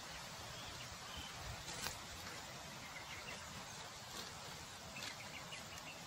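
Faint, short bird chirps scattered over a steady outdoor hiss, with a few sharp clicks, the loudest about two seconds in.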